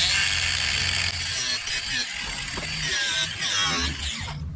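Power tool grinding metal off a rusted bolt, a harsh rasping whose pitch wavers under load, stopping about four seconds in.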